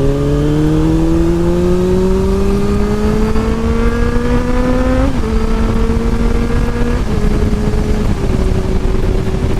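Suzuki Bandit 600 motorcycle's engine under way, its note climbing steadily for about five seconds, then dropping back a little a couple of times and holding steady. Heavy wind noise on the microphone underneath.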